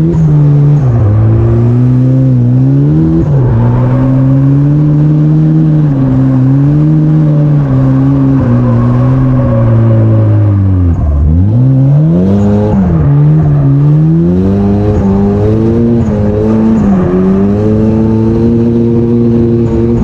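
Car engine running while driving, its pitch rising and falling with throttle and gear changes, dropping low about eleven seconds in before climbing again.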